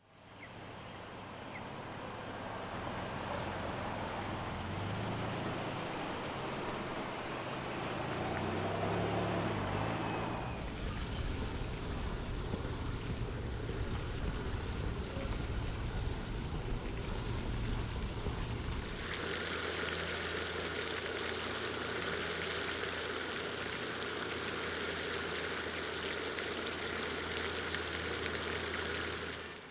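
Steady outdoor ambient noise with no distinct events, its character changing abruptly about ten seconds in and again about nineteen seconds in.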